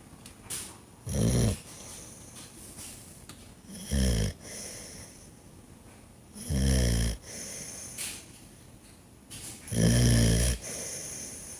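Dog snoring in its sleep: four loud snores, each about half a second long and roughly three seconds apart, with quieter breathing between them.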